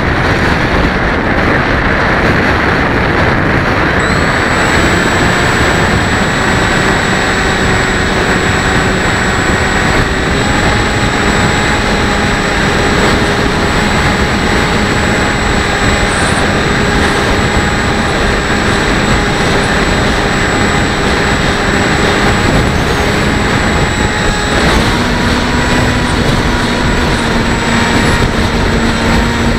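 Electric motor and propeller of a Bixler 1.1 RC plane, powered by a 4S battery, running in flight, heard over heavy wind rush on the onboard camera's microphone. The motor's whine holds steady and shifts pitch in steps a few times.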